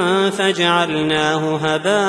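Chanted Quran recitation: a single reciter's voice draws out a long melodic phrase, sliding between held pitches. There are brief breaks about half a second in and near the end.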